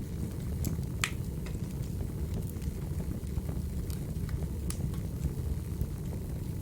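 Crackling wood fire: a steady low rumble with scattered sharp pops, the loudest about a second in.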